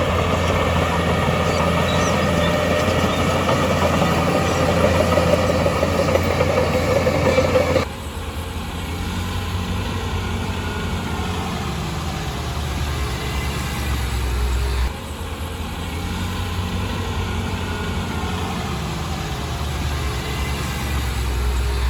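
Diesel engines of heavy construction machinery running steadily. The sound drops and changes abruptly about 8 seconds in and again near 15 seconds.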